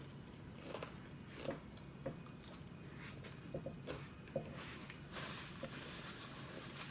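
Quiet chewing and small mouth clicks while eating a chicken wing, then, about five seconds in, a paper napkin rustling as greasy fingers are wiped.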